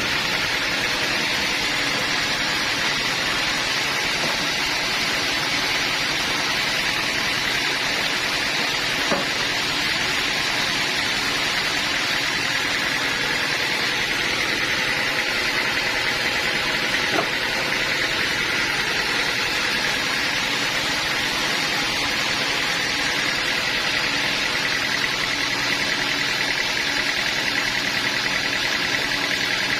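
Sawmill machinery running steadily, an engine-driven saw with a constant high whine over an even mechanical noise.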